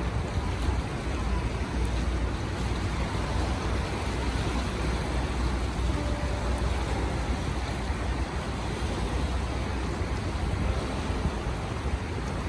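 Fast-flowing rough water rushing steadily, with wind rumbling on the microphone.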